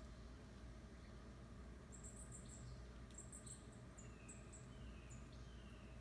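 Faint high, thin bird chirps in short clusters. From about two-thirds of the way in comes a run of short down-slurred whistled notes, one every second or less, over a low steady background hum.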